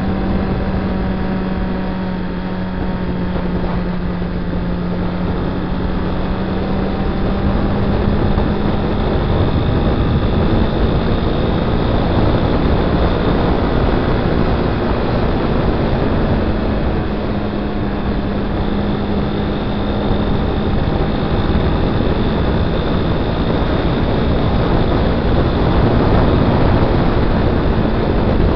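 Honda Twister 250's single-cylinder engine running steadily at highway cruising speed, its note shifting slightly up and down, under heavy wind rush on the handlebar-mounted microphone.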